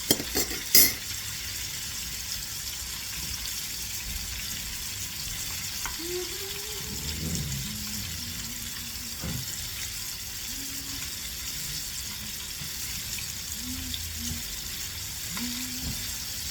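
Seasoned chicken nuggets frying in hot oil in a pan, a steady sizzle. A few sharp clicks sound just after the start.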